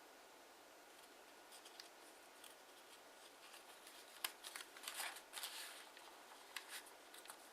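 Kraft origami paper being folded and creased by hand: faint scattered crinkles, then a louder run of sharp crackles and rustling about four to six seconds in.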